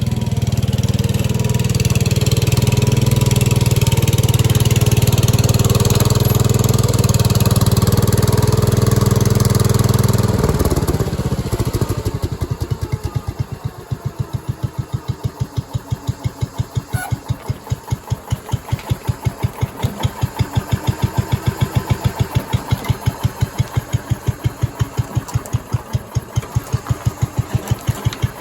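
Garden tractor engine running steadily at high throttle, then throttled down about ten seconds in to an idle with slow, even firing pulses.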